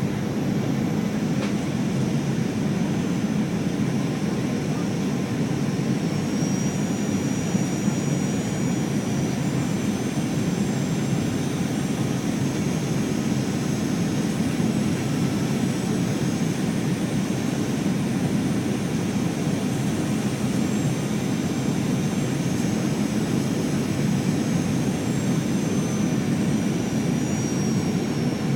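Steady cabin roar inside a Boeing 737-800 in flight, from its CFM56-7B jet engines and the airflow, with a thin high engine whine that drifts slightly in pitch.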